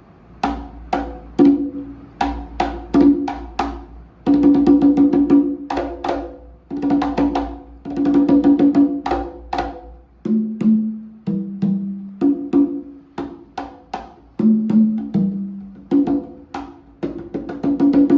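CMC Prelude congas played by hand: a stream of sharp strokes with short ringing tones, with quick runs of strokes now and then. About ten seconds in, a lower-pitched drum comes in, alternating with a higher one.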